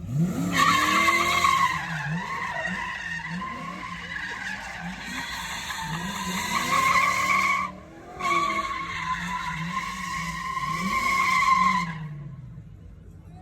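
Car tyres squealing during a burnout or spin, in two long squeals, about seven and four seconds long, with a short break between, and the engine revving up and down underneath.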